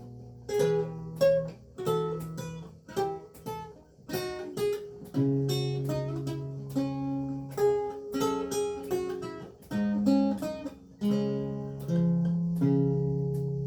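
Renaissance lute with gut strings being played: a run of plucked single notes and chords, each ringing on and fading before the next.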